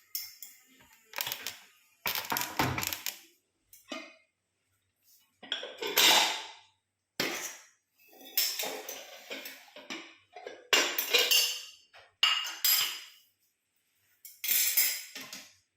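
A metal utensil scraping and clinking against a cooking pan in a series of about ten short, separate strokes.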